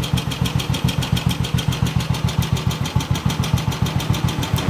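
Royal Enfield Bullet 350's single-cylinder four-stroke engine idling with an even, steady beat of about eight pulses a second, warmed up after a choke start.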